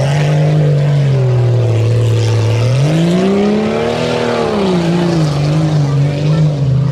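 Two-wheel-drive tuff truck's engine under hard throttle on an off-road course, its pitch climbing about three seconds in, then easing back and surging repeatedly as the driver works the throttle.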